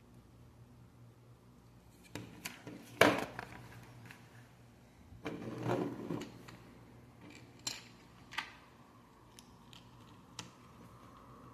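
Plastic Lego bricks being handled and pressed together: scattered sharp clicks and snaps, the loudest about three seconds in, with a short rattle of pieces being sorted in the middle.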